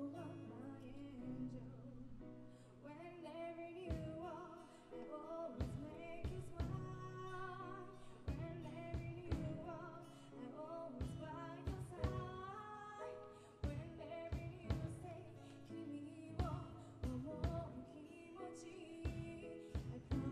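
Live band performing a song: a singer's voice over strummed acoustic guitar, with sharp percussion hits falling on the beat.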